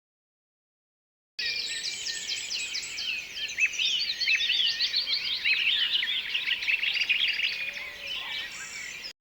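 Birds chirping and twittering: many quick, high, overlapping calls. They begin a little over a second in and stop abruptly just before the end.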